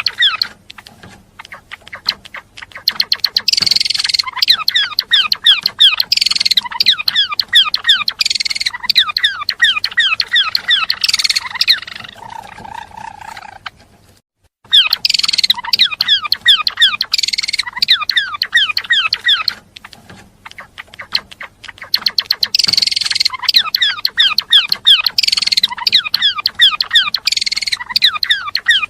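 A gelatik belong singing: fast, high-pitched twittering chirps in dense bursts lasting several seconds, broken by short pauses. There is a brief total silence about halfway through.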